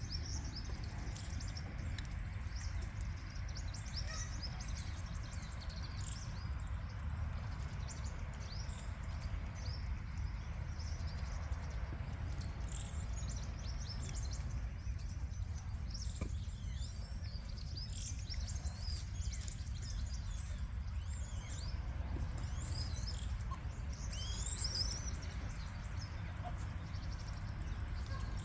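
Small birds chirping and twittering in quick, high calls, busiest in the second half, over a steady low rumble.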